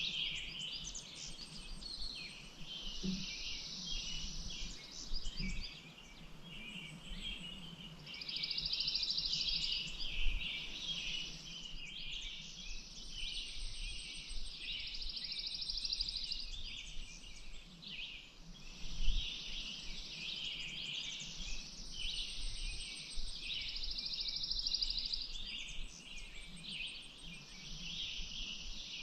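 A chorus of many birds chirping and singing at once, dense and continuous, with long buzzy trills of a couple of seconds each returning every few seconds.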